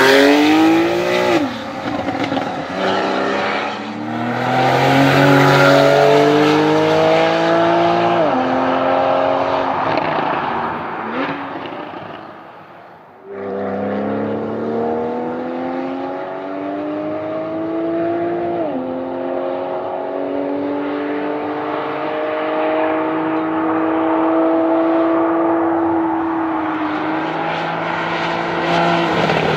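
Porsche 991 Carrera 4S flat-six through its Porsche Sports Exhaust, accelerating hard through the gears: the engine note climbs and drops sharply at each upshift. It dips briefly about halfway through, then pulls up again through another shift and settles into a steadier, slowly rising note.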